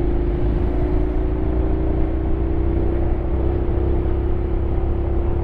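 Honda X-ADV 750's parallel-twin engine running at steady revs while riding, a held even tone over a low rumble of wind on the microphone.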